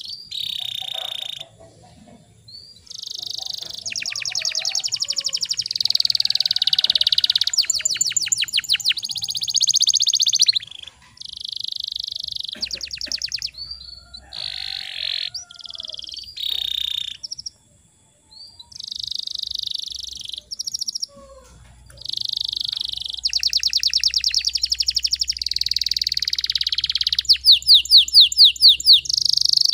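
Domestic canary singing a long song made of buzzy trills and fast rolling runs of repeated notes, with short pauses between phrases.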